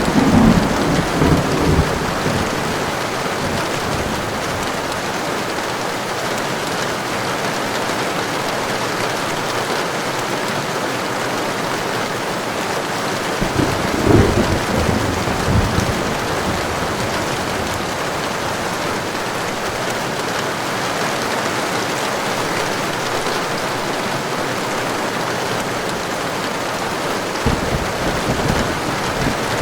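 Steady heavy rain with thunder. Low rumbles of thunder roll in at the start, again around the middle, and near the end.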